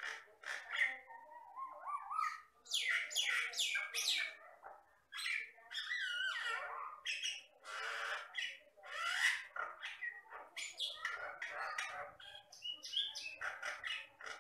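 Common myna (jalak batam) singing continuously: a varied, unbroken run of harsh chattering notes mixed with whistles and up-and-down gliding calls, with only short pauses.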